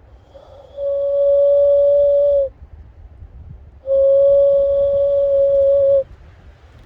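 Cupped-hand whistle blown like an ocarina: two long, steady notes at the same pitch, about two seconds each, with a short pause between them.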